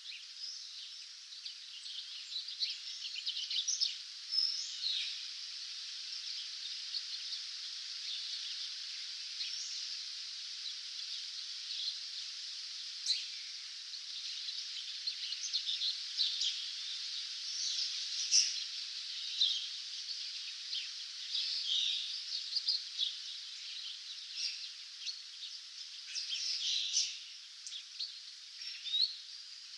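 Dawn chorus of many small songbirds: a dense, continuous backdrop of chirps and song, with sharper, nearer calls standing out every second or two.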